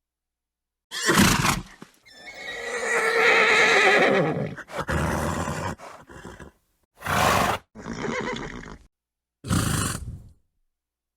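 Horse whinnying and snorting in short separate bursts with dead silence between them: a brief snort about a second in, then a wavering whinny of about two and a half seconds, followed by several more short snorts.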